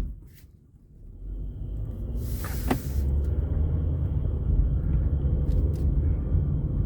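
Low rumble of a car on the move, building up over the first couple of seconds and then holding steady, with a faint steady high whine above it.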